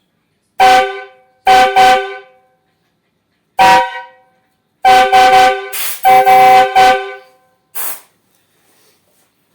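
Triple-trumpet truck air horn, fed from a compressor, sounding a loud chord of several steady tones in a series of short blasts, some in quick double and triple bursts. A short hiss of escaping air follows near the end.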